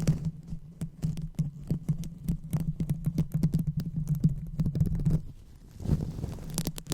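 Fingers rubbing and scratching directly on a microphone in close-up ASMR 'brain massage' handling. A dense run of crackly rustles and taps sits over a low rumble, eases off about five seconds in, and a couple more bursts follow near the end.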